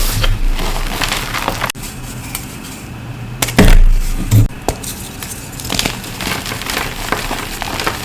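Reformed gym chalk being crushed: dense crunching and crackling with many small sharp clicks, and two heavier thuds about halfway through.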